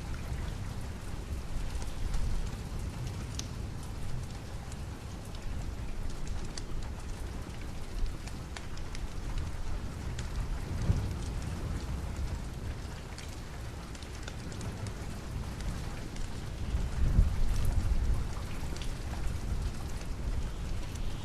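Steady rain with a low rumble of distant thunder that swells about halfway through and again near the end, and scattered sharp crackles from a wood fire in a fireplace.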